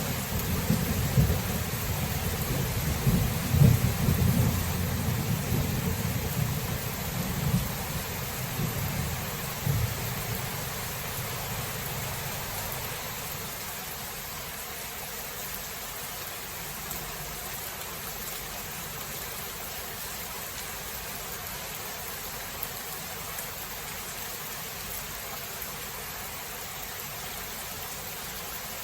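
Thunder rolling and rumbling low through heavy rain, dying away over the first ten seconds or so. After that only the steady hiss of rain is left.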